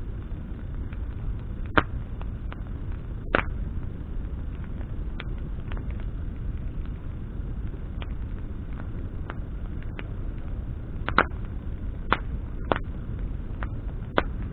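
Bonfire of branches burning: irregular sharp crackles and pops of the wood, half a dozen of them loud, over a steady low rush.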